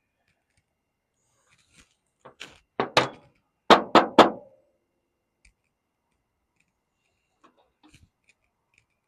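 Six or so sharp knocks in quick succession, the loudest three close together, as hard parts are knocked about while working on a skid steer's hydraulic control valve; a few faint clicks follow near the end.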